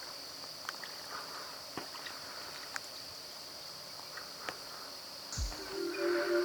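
Steady high-pitched insect chorus with a few faint clicks. About five seconds in, music with low thumps comes in and becomes the loudest sound.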